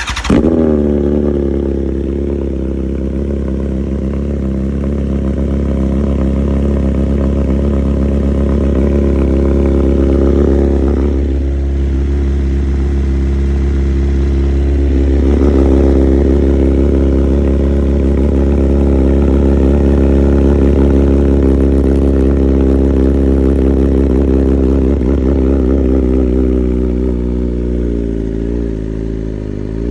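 2020 BMW S1000RR inline-four engine starting up and idling through a full Arrow titanium competition exhaust, loud. It settles into a steady idle, with a couple of brief dips in pitch partway through and some wavering near the end.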